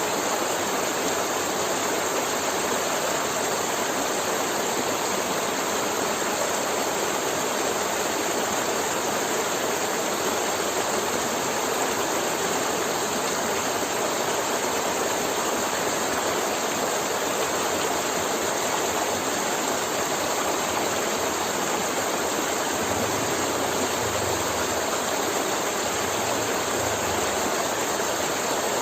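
River water flowing steadily over its bed, a continuous even rush of water.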